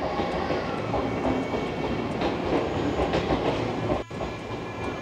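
Train running along the rails, its wheels clattering over the rail joints in a steady rumble, with a sudden brief break about four seconds in.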